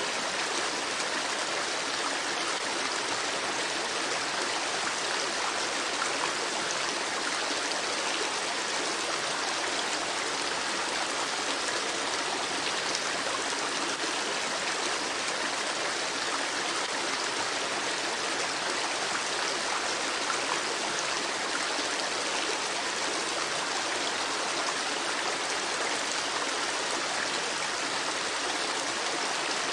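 Creek water babbling steadily over rocks, an even, unbroken rush of running water.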